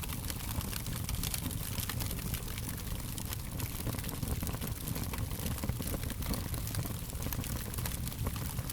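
Fire crackling, with frequent sharp pops and snaps over a steady low rumble and hiss.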